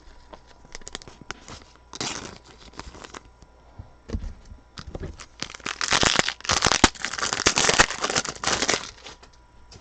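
Trading cards and a foil pack wrapper being handled: scattered light clicks and brief rustles, then a few seconds of dense crinkling near the end.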